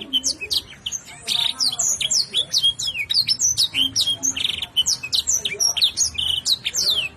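Domestic canary singing a fast, unbroken song of sharp downward-slurred whistles, broken by a few short buzzy rolls. The song is a hobbyist's canary trained with 'isian', phrases borrowed from other songbirds.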